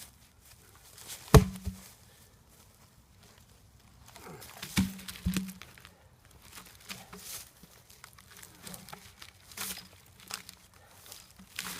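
Rustling and crackling of leaves and brush as cut tree limbs are handled, with a few sharp knocks, the loudest about a second and a half in and two more around five seconds in.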